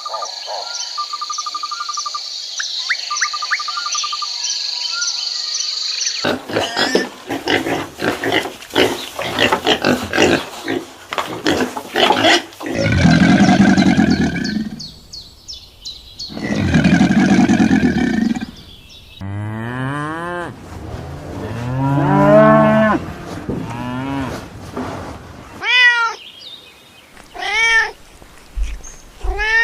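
A run of different animal calls one after another: rapid strokes in the first half, two long low calls in the middle, then several shorter calls that drop in pitch near the end.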